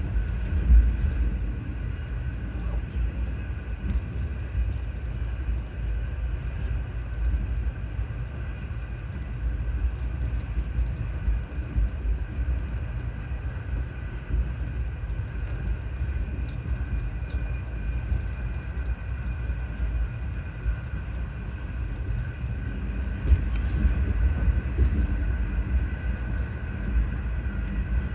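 Train running along the track: a steady low rumble with a faint steady whine over it, and a few light clicks and knocks.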